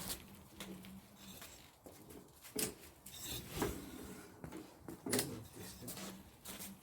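Scattered light knocks and clicks, with a few sharper ones, from a home-built electric mini motorbike being handled while its brakes are checked, over a faint low hum that comes and goes.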